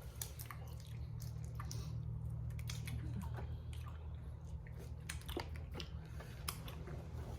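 Close-miked eating sounds of boiled Cajun crawfish: wet chewing with scattered small clicks and cracks, over a steady low hum.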